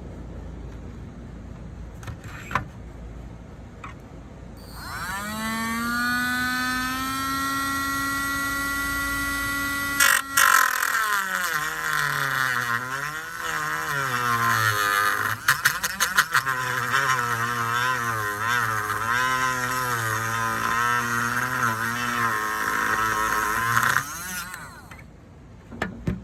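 Dremel rotary tool with a cut-off disc spinning up to a steady whine about five seconds in. From about ten seconds in it is cutting: the pitch drops and wavers under load with a harsh grinding noise, until the tool stops near the end.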